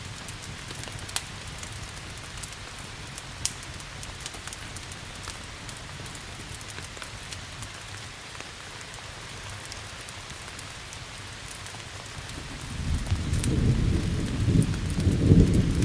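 Steady rain with scattered sharp crackles from a wood fire. A low rumble of thunder builds about three-quarters of the way through and is loudest near the end.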